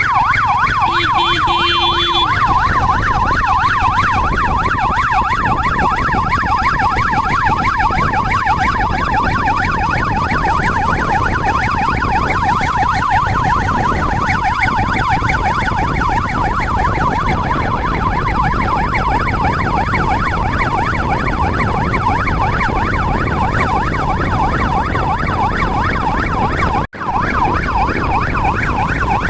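Electronic siren in a fast yelp, its pitch sweeping up and down several times a second, over a steady low rumble of vehicle noise. Near the start a second steady tone sounds for about two seconds. The sound cuts out briefly near the end.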